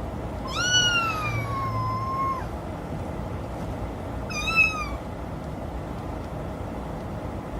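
Recorded cat meows, a sound clip played through the car's speakers from a connected phone: one long meow falling in pitch, then a shorter meow about four seconds in.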